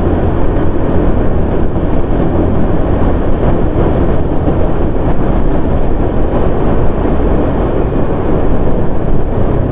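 Loud, steady rumble of wind and road noise picked up by the microphone of a moving vehicle in city traffic, with engine noise beneath it.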